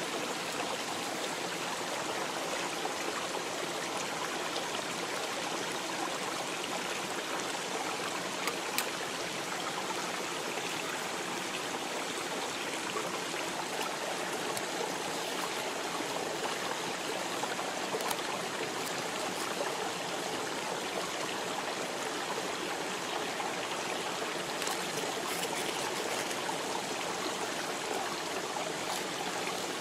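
Steady rushing of a flowing stream, with a few sharp crackles from the wood campfire about a third and two-thirds of the way through.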